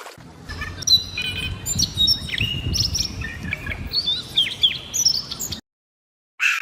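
Songbirds chirping and whistling, a quick run of short notes at many pitches over a low background rumble. It cuts off suddenly near the end, and a brief separate sound follows.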